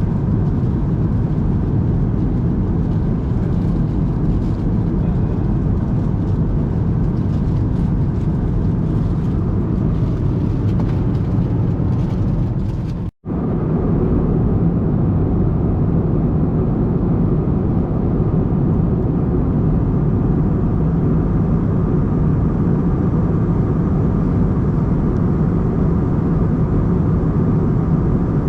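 Airbus A320 cabin noise from a seat behind the wing in flight: a steady, loud low rush of engine and airflow with a faint hum. It cuts out for an instant about 13 seconds in and comes straight back.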